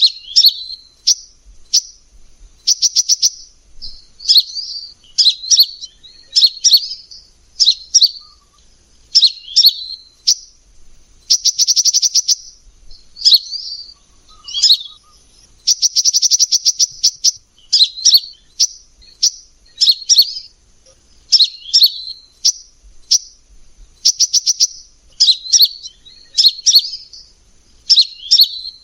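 Kolibri ninja sunbird singing. Short high chirping phrases repeat about once a second, broken every few seconds by fast, dry rattling trills.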